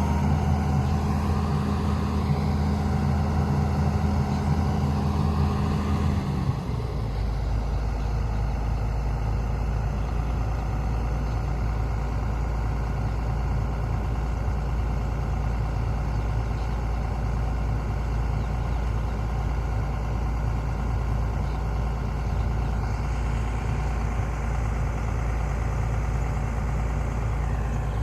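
Heavy diesel engine running steadily. About six seconds in, its note drops to a lower, steady run.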